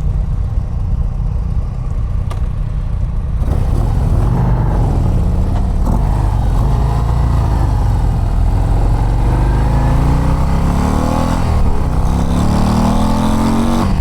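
Harley-Davidson CVO ST's Milwaukee-Eight 121 V-twin on its stock exhaust, cruising steadily and then accelerating hard from about three seconds in, its pitch climbing, dropping briefly at a gear change near the end and climbing again.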